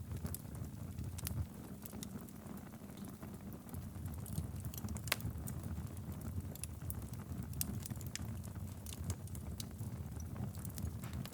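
A wood fire burning in a fireplace: a steady low rumble of flames with sharp, irregular crackles and pops throughout.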